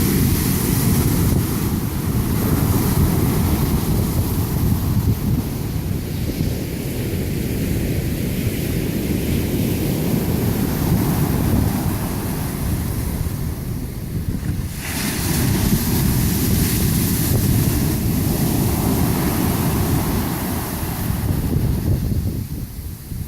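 Pacific Ocean surf breaking on a long, straight sandy beach: a continuous deep rumble of waves, with the hiss of a breaker swelling up about halfway through. Wind buffets the microphone throughout.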